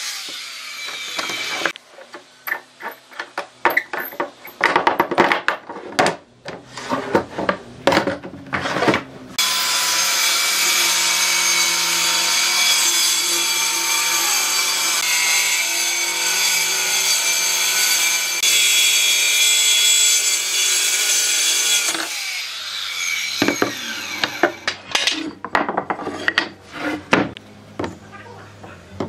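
A power tool working wood, running steadily for about twelve seconds in the middle. Before and after it come stretches of irregular, separate strokes and knocks on the wood.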